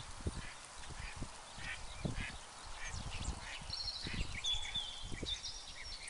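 Birds calling: a run of short repeated calls, with a few brief high whistled notes in the second half. Irregular low thumps sound underneath.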